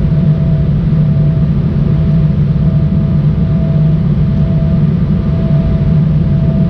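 Embraer ERJ-175 cabin noise from a window seat: a loud, steady rumble from its CF34 turbofan engines, with an even hum over it that neither rises nor falls.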